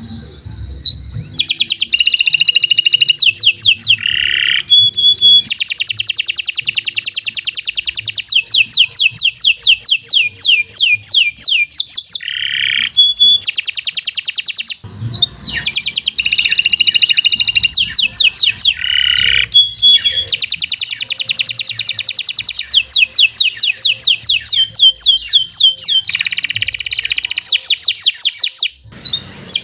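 Domestic canary singing a long, loud song: long trills of fast repeated high notes, with two brief pauses, about halfway and near the end.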